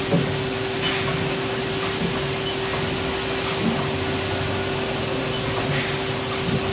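Haas SL20 CNC lathe running: a steady machine hum with one held tone over an even hiss, and a few faint ticks.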